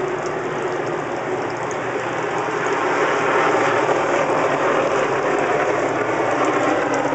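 Garden water fountain splashing steadily, growing somewhat louder about three seconds in.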